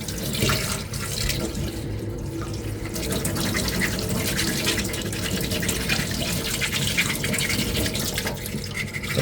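Coarse sandpaper, around 100 grit, scrubbing rapidly back and forth over a small putty-coated 3D-printed armour piece to take out deep marks, with water on the work suggesting wet sanding.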